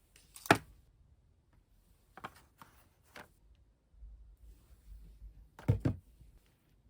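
Small objects being handled on a hard surface: a sharp knock about half a second in, a few lighter clicks, then a double knock near the end.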